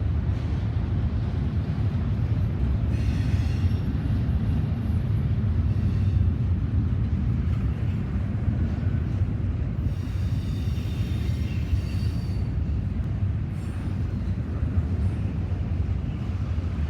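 Freight train rolling past: a steady low rumble of steel wheels on rails, with faint high wheel squeals a few seconds in and again around ten seconds in.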